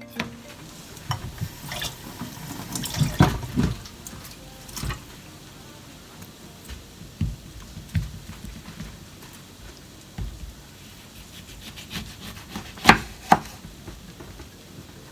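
Water running from a kitchen tap into a sink, with scattered clinks and knocks of things being handled in it; two sharp knocks near the end are the loudest.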